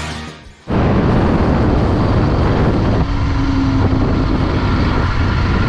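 Royal Enfield Continental GT 650's parallel-twin engine running steadily under way, mixed with wind rush on the microphone, after a short fade-out of background music at the start.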